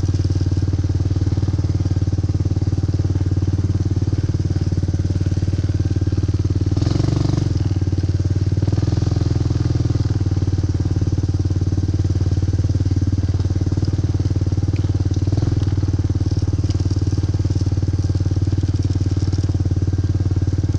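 ATV engine running steadily while riding, with a brief rush of noise about seven seconds in.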